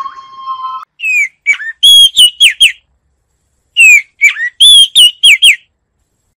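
Bird song of short, clear whistled notes, each sliding down in pitch, in two phrases with a pause between. A steady electronic-sounding tone fades out within the first second.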